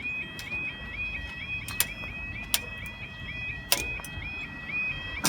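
Level crossing audible warning, the 'yodel' alarm, sounding while the barriers move: a rapid repeating rising two-tone warble, about three notes a second. A few sharp clicks cut across it.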